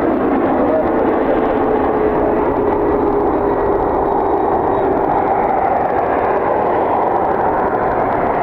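Jet aircraft engines running loudly: a steady rush with a whine that slowly falls in pitch, and a higher tone that rises later on.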